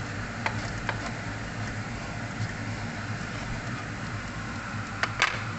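Minced onion and garlic sizzling in oil in a wok, over a steady low hum. A wooden spatula knocks and scrapes against the pan a few times: two light knocks early on and two louder ones near the end.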